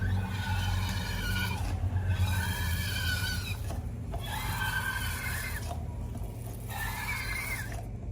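Rubber balloon squealing: four long, wavering high-pitched squeals with short gaps between them, over a low steady hum.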